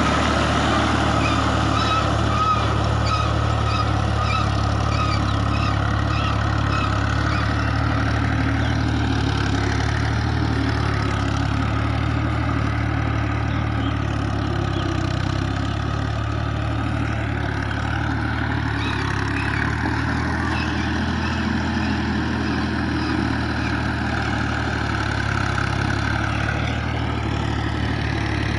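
Fiat 480 tractor's three-cylinder diesel engine running steadily while cultivating a muddy rice field.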